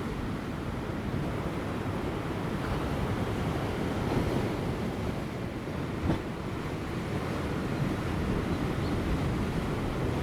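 Ocean surf breaking on offshore rocks: a steady wash of waves that swells a little, with light wind. One short thump about six seconds in.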